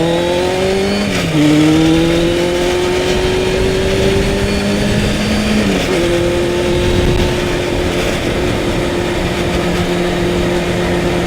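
1998 Honda CBR600 F3 inline-four engine pulling up through the gears. The pitch rises, drops at an upshift about a second in, climbs slowly to a second upshift near the middle, then holds steady at cruising speed, with wind noise over the helmet.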